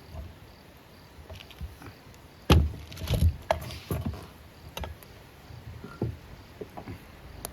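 Irregular knocks and clatters of hard objects being handled, about half a dozen, the loudest a pair about two and a half to three seconds in.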